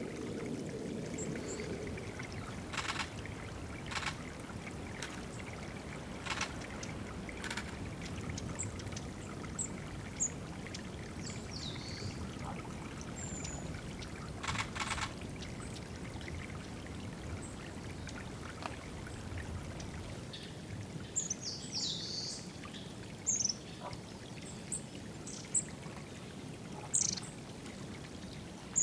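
Water trickling steadily at a woodland bird watering spot, with short, high, thin chirps of small birds that come more often in the second half. A few short sharp noises break in during the first half.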